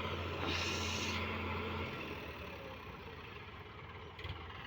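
Diesel tractor engine running with a steady low hum that fades away after about two seconds. A brief hiss comes about half a second in.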